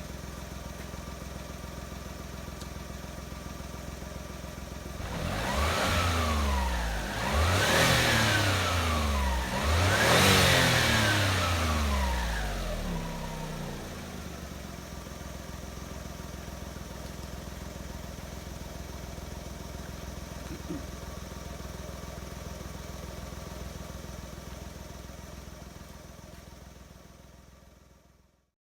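Daihatsu EF-DET 660 cc turbocharged three-cylinder engine, freshly overhauled, idling steadily. It is revved three times in a row between about five and thirteen seconds in, then settles back to idle. The sound fades out near the end.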